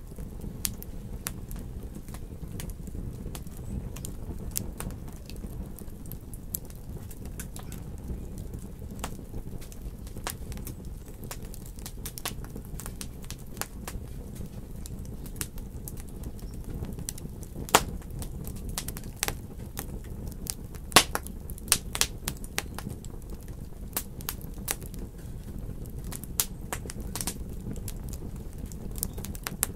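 Wood fire burning in a fireplace: irregular crackles and sharp pops over a low steady rumble of flame, with a few louder pops a little past the middle.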